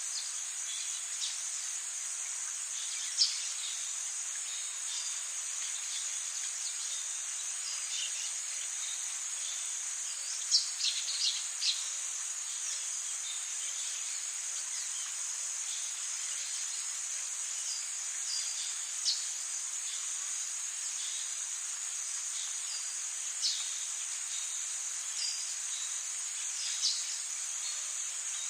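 Rainforest ambience: a steady, high-pitched insect chorus, with short bird chirps dropping in every few seconds, a quick cluster of them about ten seconds in.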